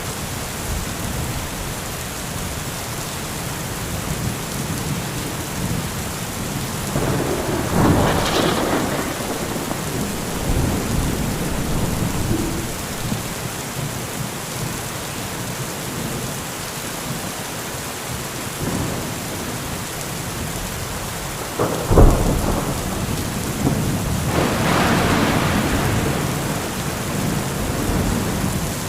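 Heavy steady rain with thunder: a rumble swells and fades about seven seconds in, then a sharp close crack about two-thirds of the way through, followed by rolling thunder that dies away.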